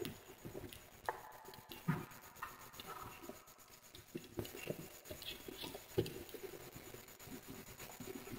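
Wood fire crackling: scattered small pops and snaps over a faint hiss, with louder pops about a second in, about two seconds in and about six seconds in.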